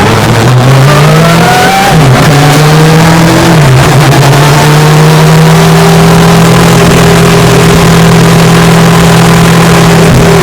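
Vauxhall Corsa B's engine and exhaust, heard from inside the cabin and described as loud. It revs up through two quick gear changes, then holds steady revs, with a drop in pitch right at the end.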